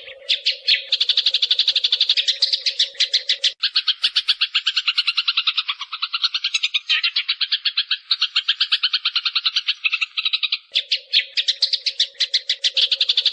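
Sparrows chirping in a fast, unbroken chatter of about ten chirps a second: a recorded sparrow lure call for bird trapping. A steady low hum runs under the chirps, dropping out for the middle stretch.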